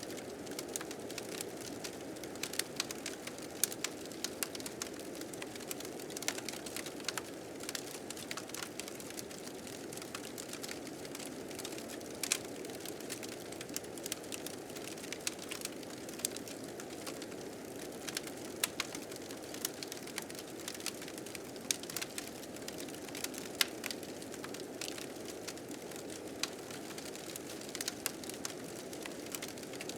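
A fire crackling, with frequent sharp pops scattered irregularly, over a steady low rush of blizzard wind.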